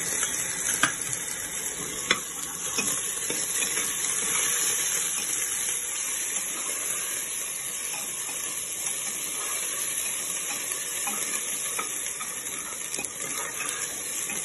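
Onions frying in hot ghee in a pressure cooker, a steady sizzle, with a steel spatula stirring and now and then clicking against the pot. The sizzle jumps louder right at the start as watery ginger-garlic paste goes into the hot fat.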